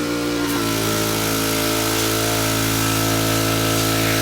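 A motor running steadily with an even, pitched hum that settles about half a second in.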